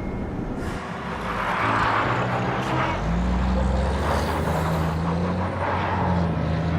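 Truck engine sound effect: a steady engine hum joins in about three seconds in, over a noisy rush of driving.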